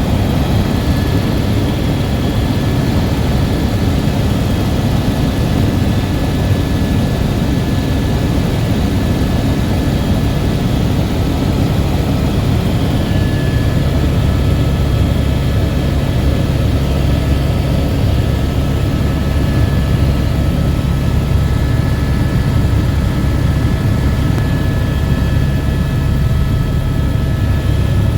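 Helicopter engine and rotor running steadily in flight: a constant loud low rumble with a faint steady whine above it.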